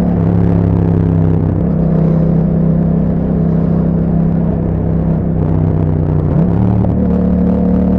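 2021 Yamaha MT-07's 689 cc parallel-twin engine running through an Akrapovic exhaust at a fairly steady speed. Its pitch briefly dips and picks up again about six and a half seconds in.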